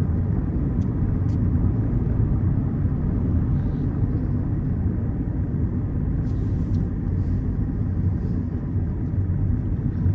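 Steady low rumble of a Peugeot 207 on the move, heard from inside the cabin: engine and road noise, with a few faint clicks.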